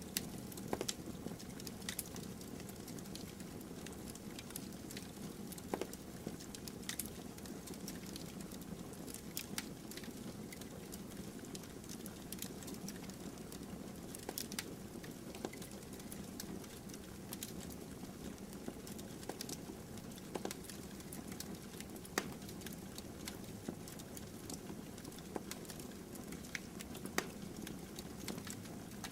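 Bonfire burning: a steady low rush of the flames with irregular sharp crackles and pops from the burning wood.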